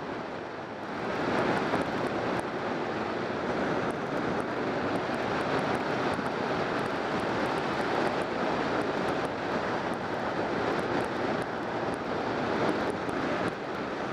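Steady wind rush and running noise of a BMW K1200R motorcycle's inline-four engine at road speed, heard from the rider's helmet or bike-mounted camera; it grows louder about a second in and then holds steady.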